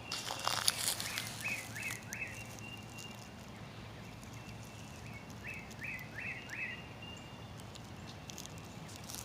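A bird calling in two short runs of three or four quick chirps, each note falling in pitch, over a faint steady high buzz. There are a few crackles or rustles in the first two seconds.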